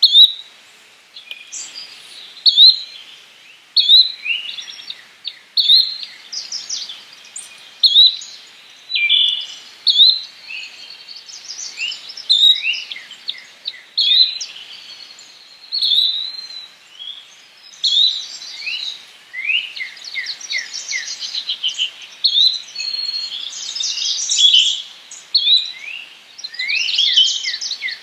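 Yellow-bellied flycatcher calling, a short sharp note repeated every second or two, with other birds chirping and trilling around it, busier in the second half.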